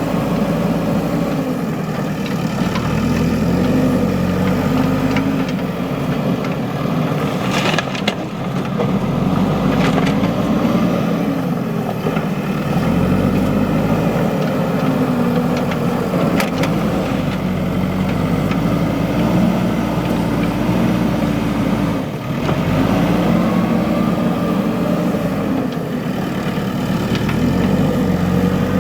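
Diesel engine of a JCB 3DX backhoe loader working, its revs rising and falling again and again as it takes and releases load. Two sharp knocks stand out, a quarter of the way in and again past the middle.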